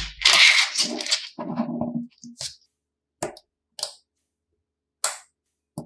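Plastic magnetic building pieces clacking and snapping together: a loud clatter at the start, then single sharp clicks every second or so.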